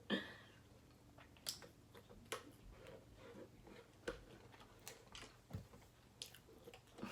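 Someone eating: soft chewing with scattered small clicks and crunches, faint and close.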